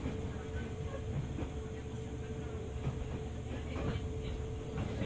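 A JR 205 series 600 subseries electric train running along the track, with a steady rumble, a constant hum and a few faint clicks from the wheels over rail joints.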